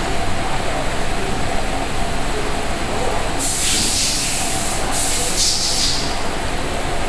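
Steady rushing of an electric fan blowing across the microphone. About halfway through come two hissing spray bursts, each a second or so long.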